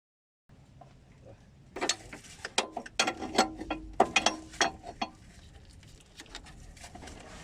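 A quick run of sharp metallic clicks and clanks from hand tools at work on the van, starting about two seconds in and thinning out after five, with one short metallic ring in the middle.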